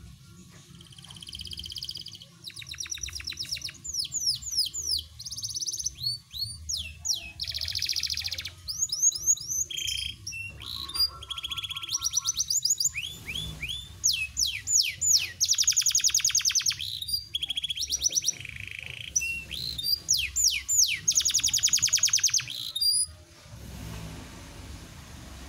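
Pied ('panda') domestic canary singing a long, varied song of rapid high trills and fast down-sweeping notes, with brief pauses, stopping about 23 seconds in.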